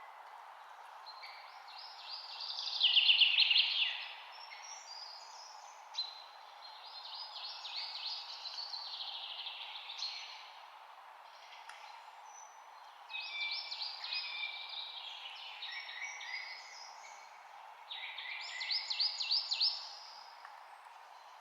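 A songbird singing four song phrases, each a quick run of high notes lasting two to three seconds, over a steady background hiss.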